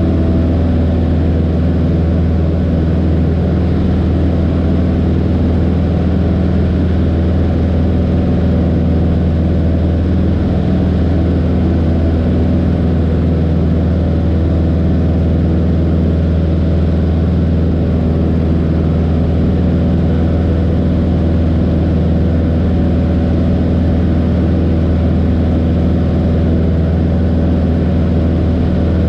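Light aircraft's piston engine and propeller running at takeoff power, a loud steady drone that holds the same pitch throughout.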